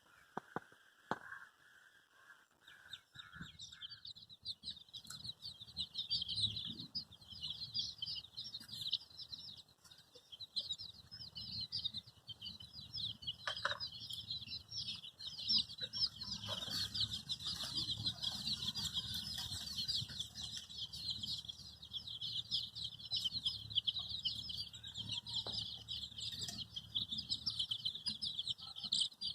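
A crowd of baby chicks peeping, many high, short calls overlapping without pause, building up about three seconds in. A low rumble sits underneath.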